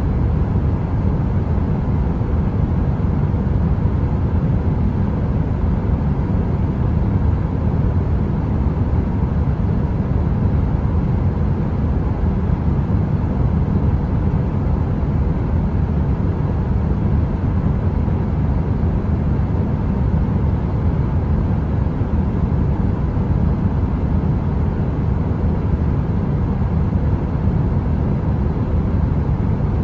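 Steady, deep heater noise: an even rumbling hiss weighted to the low end with a faint hum, unchanging throughout.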